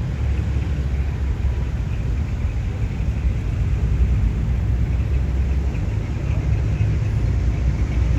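Low, steady engine and exhaust sound of cars cruising slowly past.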